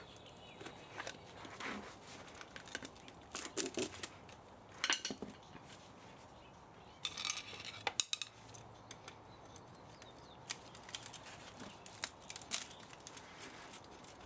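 Irregular metallic clicks, clinks and scrapes of hand tools working on an electric spa motor being taken apart for its copper and aluminium, with louder clusters of clatter every few seconds.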